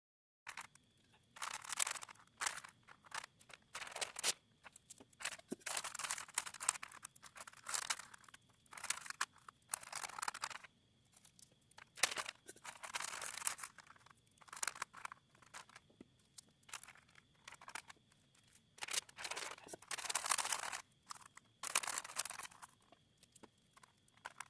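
Paper crinkling and tearing in irregular bursts, handled and tucked behind an alloy wheel as masking against spray paint.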